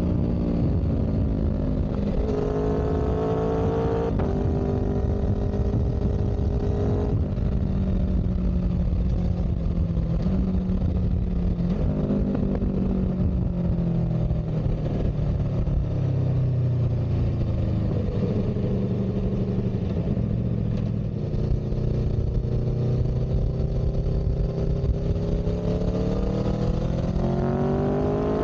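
Motor vehicle engine running while under way, over a heavy low rumble. Its pitch climbs and drops sharply about 4 and 7 seconds in, like gear changes, then falls and rises slowly with speed.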